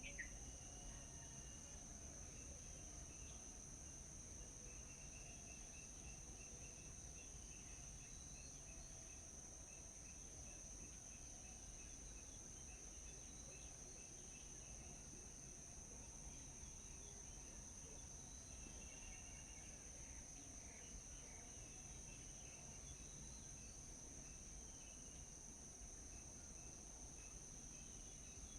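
Faint outdoor insect chorus: a steady high-pitched drone with no break. Faint bird calls of quick repeated notes come and go behind it.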